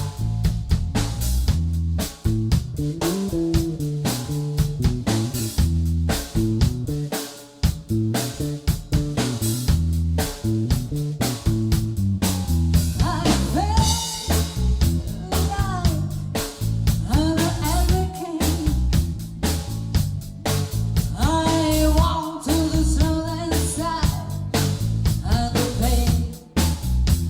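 Rock-blues band playing with electric guitar, bass guitar and drum kit on a steady beat, with bending melodic lines over it in the second half.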